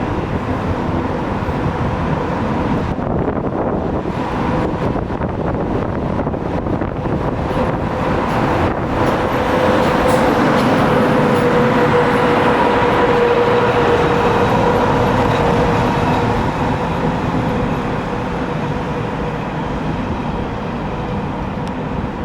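A train moving along the platform track: rolling wheel-and-rail noise swells to a peak about halfway through, then eases off, with a steady whine over it that is strongest at the peak.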